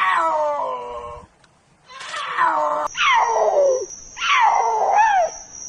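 Puma screaming: about four drawn-out, high calls, each sliding down in pitch, with a short break after the first.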